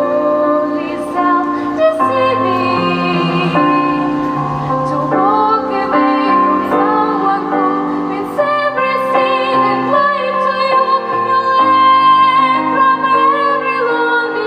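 A girl singing a slow ballad in classical academic style, over piano accompaniment with held chords and low bass notes; her long notes waver with vibrato.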